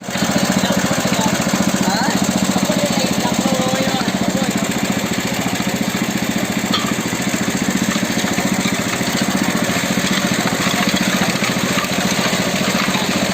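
Small single-cylinder petrol engine running steadily at constant speed, driving a five-drum gelondong gold-ore grinding mill.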